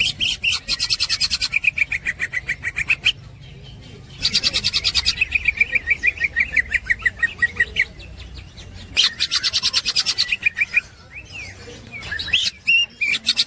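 Cucak ijo (greater green leafbird) singing its 'ngekek' chatter: fast runs of rapidly repeated sharp notes, in four bursts of one to four seconds each with short pauses between.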